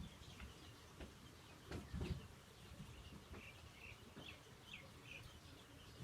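Faint small-bird chirps: a run of short, high chirps in the latter half, over a low outdoor background, with a couple of dull low thumps about two seconds in.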